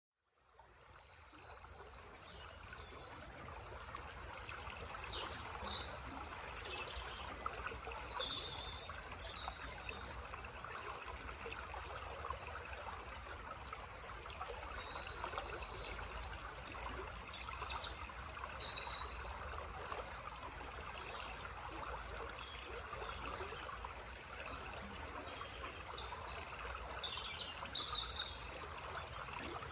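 Small forest stream gurgling and trickling steadily, fading in over the first few seconds. Birds sing short chirping phrases over it a few times.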